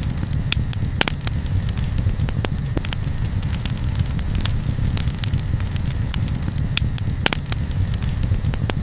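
Campfire crackling, with irregular sharp pops and snaps over a steady low rumble. A faint high chirp repeats at an even pace.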